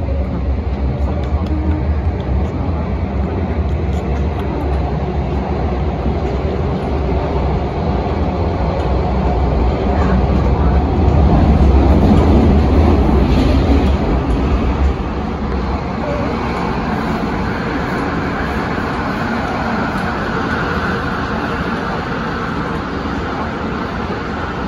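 Cabin noise inside a CAF-built MTR Tung Chung line train running at speed through a tunnel: a steady, loud rumble of wheels on rail. It swells a little past halfway, then eases about fifteen seconds in to a lighter, higher rushing sound.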